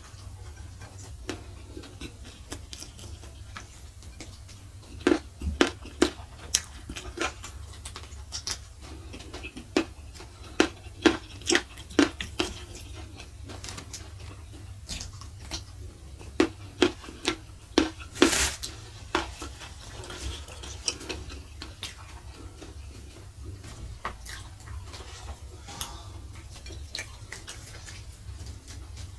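Close-miked mukbang eating sounds: chewing a mouthful of rice, fried spleen and raw vegetables eaten by hand, with clusters of sharp crunches and wet mouth clicks. A steady low hum runs underneath.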